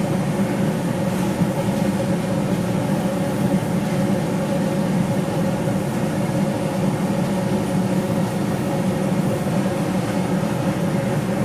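Forging equipment running with a steady mechanical drone: a low hum with a higher humming tone over a constant rushing noise.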